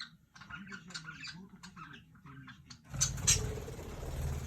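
Pet budgies chattering softly in their cage, then about three seconds in a sudden loud flurry of wing-flapping as the birds take off and fly around the cage.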